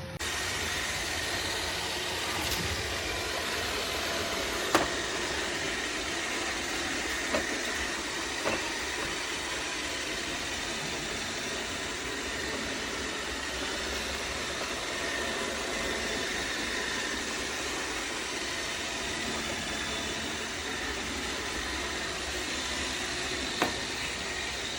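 iRobot Roomba 692 robot vacuum running: a steady motor and brush hiss with a faint high whine, broken by four short sharp knocks.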